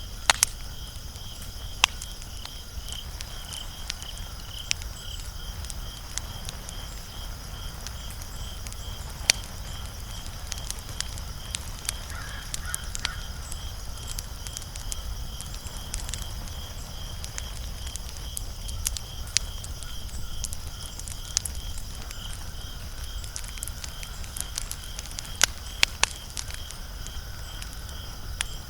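Wood fire burning with a low rush and scattered sharp crackles and pops, a few of them together near the end. A steady high pulsing chirp, like an insect, runs underneath.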